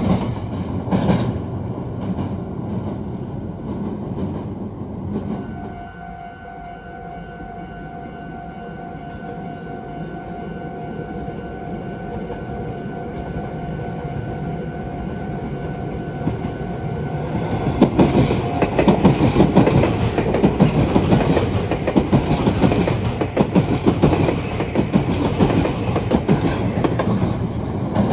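Meitetsu electric trains running past, their wheels clicking over rail joints. One train fades away in the first few seconds, a steady high tone sounds in the lull, and a second train passes loudly from about two-thirds of the way through.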